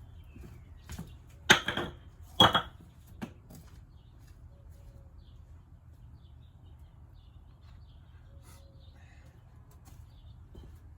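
Two loud clattering knocks about a second apart, then a faint tick, over a low steady hum.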